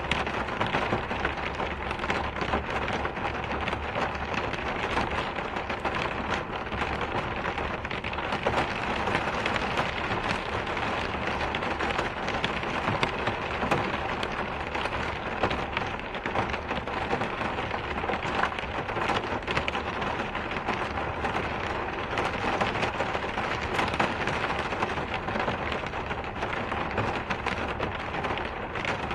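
Steady rain falling, a dense even hiss with many single drops ticking through it and no letup.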